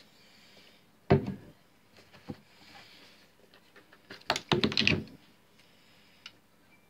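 Knocks and clicks of small objects being handled and set down on a hard work surface: one sharp knock about a second in, a lighter click soon after, and a quick clatter of several clicks a little past the middle.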